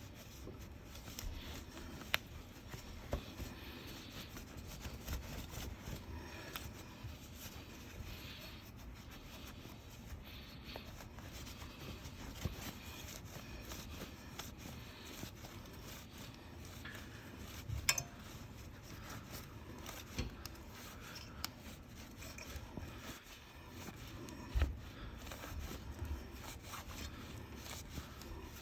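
Hand scrubbing of rust off a chrome motorcycle wheel rim and its spokes: an ongoing scratchy rubbing, with a few light knocks along the way.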